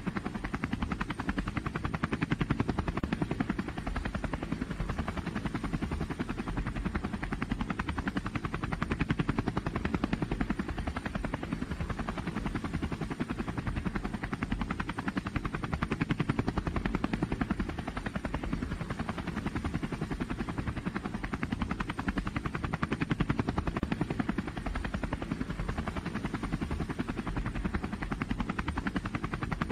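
Engine of a pulling vehicle running hard at high revs under load, a steady, fast pulsing drone that swells and eases slightly a few times.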